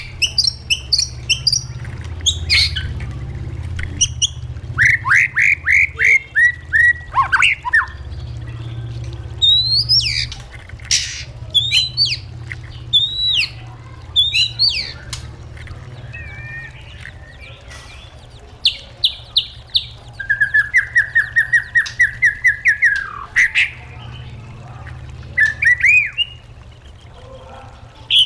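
White-rumped shama singing a varied song of loud whistled phrases and sweeping notes, broken by sharp clicks and twice by a fast run of repeated notes.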